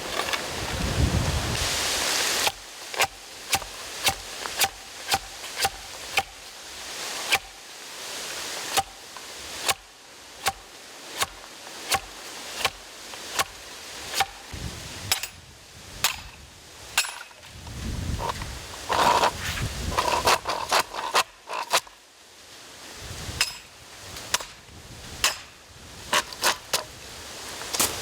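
Repeated sharp knocks, about one or two a second, each with a short ring, as the internal nodes of a length of bamboo are struck and broken out to hollow the pole.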